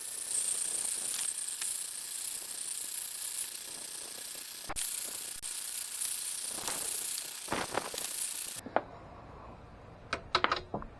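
MAP-gas torch burning with a steady hiss, shut off abruptly about three-quarters of the way through, followed by a few sharp clicks near the end.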